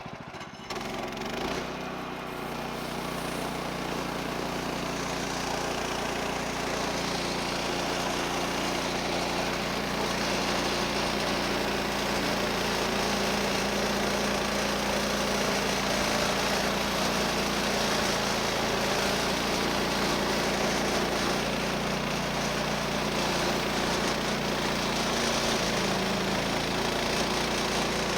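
Woodland Mills HM130 sawmill's 14 HP Kohler engine throttling up from idle about half a second in, then running steadily under load as the band blade cuts a board from the log.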